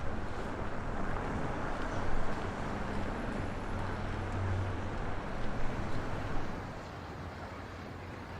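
Storm wind buffeting the microphone through a windshield that fails in the gusts: a low rumbling roar with two strong gusts, easing off near the end.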